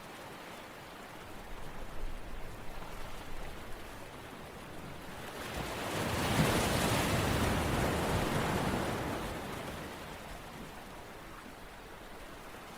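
Steady rushing, water-like noise. A few crackly peaks come between about one and four seconds in, and a louder surge builds about five seconds in and fades away by ten seconds.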